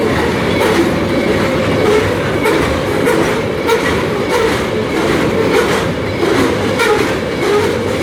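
Coal train's freight cars passing close by: a steady heavy rumble with the wheels clacking over the rails.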